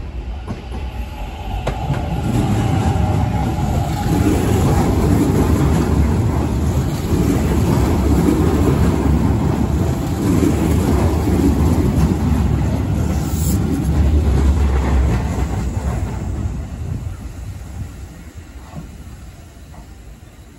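Electric commuter train running in along the platform: a rumble of wheels on rail builds over the first couple of seconds, holds loud for about twelve seconds as the cars pass, then dies away as the train slows to a stop.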